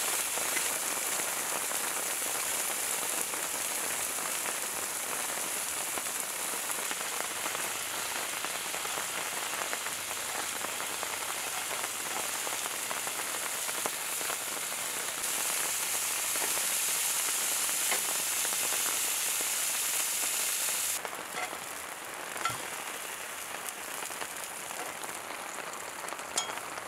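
Chicken tenders sizzling in hot oil in a cast-iron skillet, a steady hiss. About 21 s in the sizzle drops quieter, and a few light clicks follow.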